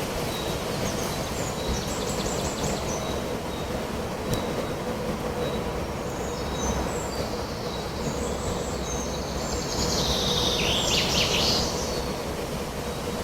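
Songbirds singing over a steady rush of wind, with short high chirps and trills coming and going and a louder burst of song near the end.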